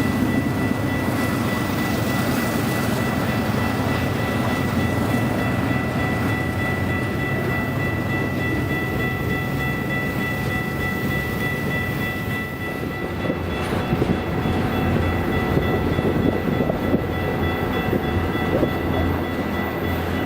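Freight train rolling past with a steady low rumble from the cars and a high, steady whine over it. About two-thirds of the way through, the whine fades and the low rumble grows heavier.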